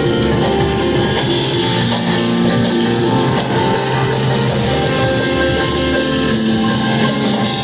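Rock band playing live with guitars and drum kit, loud and continuous.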